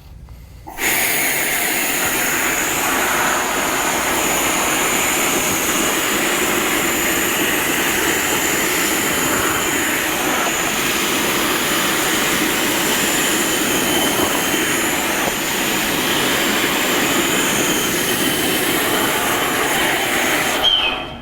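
Air-operated industrial wet/dry vacuum running on shop compressed air, a loud steady rush with a faint high whistle. It starts about a second in and cuts off suddenly near the end.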